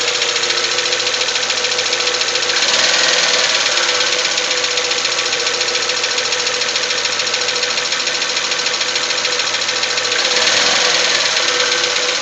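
Nissan QG18DE 1.8-litre four-cylinder engine running with a rapid metallic clatter, revved up briefly about three seconds in and again near the end. The clatter comes from a cracked flexplate, the drive plate joining the engine to the automatic transmission.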